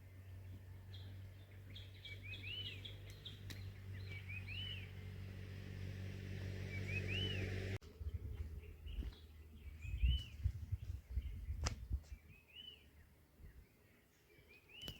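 A bird repeats a short rising-and-falling call about every two seconds. Under it a low engine hum grows louder, then cuts off suddenly about halfway through, leaving low rumbles and one sharp click.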